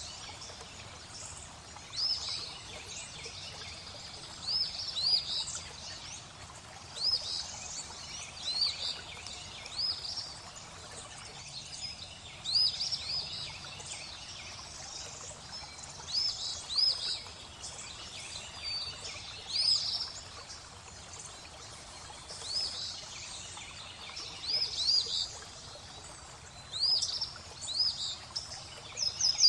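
Small birds singing in repeated short chirping phrases every second or two, over a steady trickle of flowing water.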